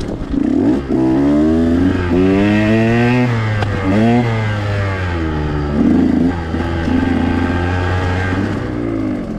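2021 KTM 125 XC two-stroke dirt bike engine under way, its pitch rising and falling several times with throttle and gear changes.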